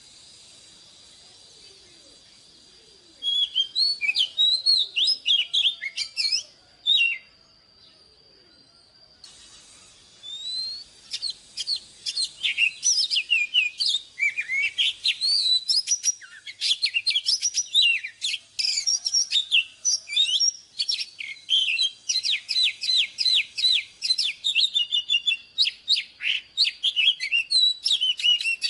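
Oriental magpie-robin singing: rapid, varied, sharp whistled notes and slurred phrases. After a quiet start it sings a short burst, pauses, then sings without a break for most of the rest.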